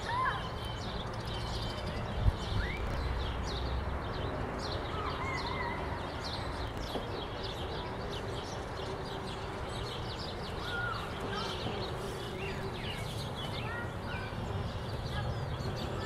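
Wild songbirds chirping and calling, many short repeated calls and a few brief whistled glides, over a steady low outdoor hum; a soft knock about two seconds in.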